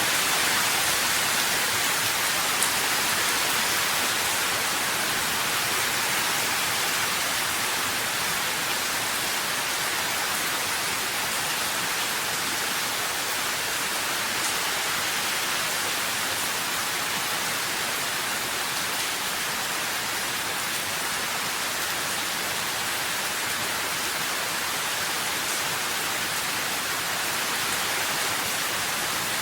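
Steady rain falling, an even hiss without distinct drops or thunder.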